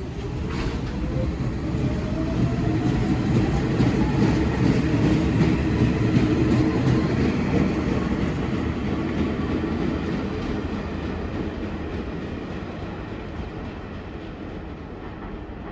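R46 subway train accelerating, its traction motors whining up in pitch over the first few seconds over the rumble and clatter of wheels on rail. The noise builds to a peak about midway, then slowly fades as the train moves off.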